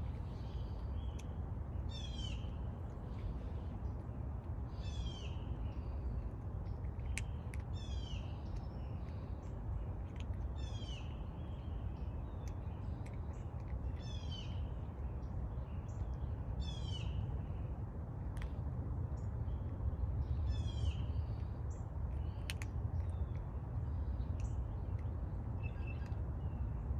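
A bird calling over and over, one short high call about every three seconds, over a steady low rumble.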